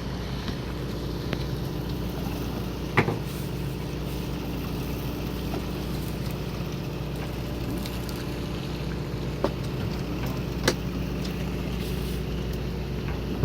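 A fishing boat's engine running steadily at idle, with a few sharp knocks on deck, one about three seconds in and two more near the end.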